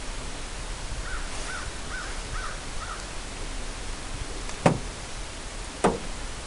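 A bird calls five times in quick succession over a steady outdoor hiss, then two sharp knocks follow about a second apart.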